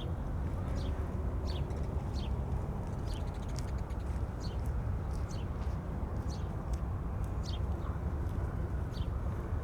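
Wind rumbling steadily on the microphones, with walking footsteps on pavement ticking evenly about every three-quarters of a second.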